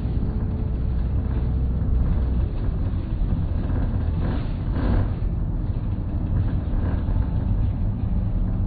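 Running sound of an Isuzu diesel route bus with an automated manual transmission, heard from inside: a steady low engine and road rumble. A faint steady whine fades out about two and a half seconds in.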